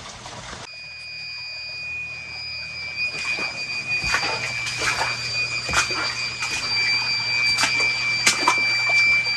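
Floodwater splashing and gushing, growing louder, over a steady low electrical hum, with a continuous high-pitched electronic tone coming in about a second in.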